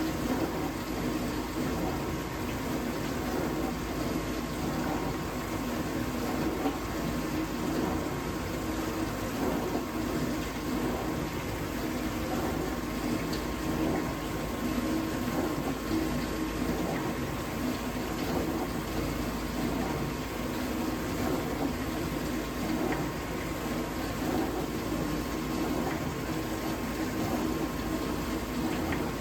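Vintage dishwasher running a wash cycle: a steady pump hum with water washing around inside the tub. The owner suspects the pump is restricted, since the water no longer hits the tub at full force.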